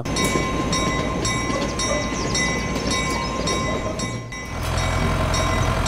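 A train running along its track, a steady rolling rumble with a regular clatter and a thin steady whine, easing briefly a little after four seconds in.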